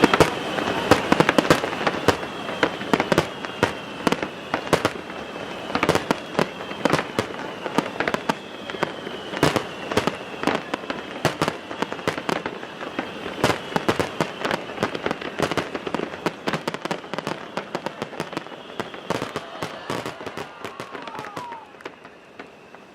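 Aerial fireworks going off in rapid succession, a dense run of sharp bangs and crackling pops. The bursts thin out and grow quieter toward the end.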